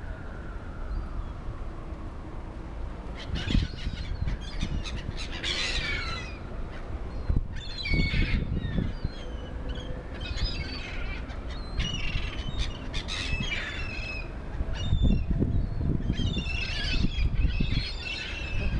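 Many birds squawking and calling over one another in several busy bursts, with a steady low rumble underneath.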